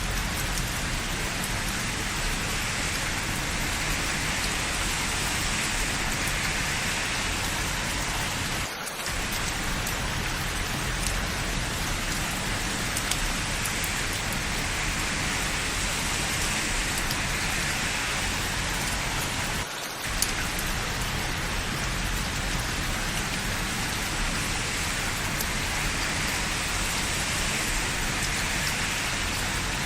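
Steady rain falling on hard surfaces, an even hiss of drops, with two brief dips in level.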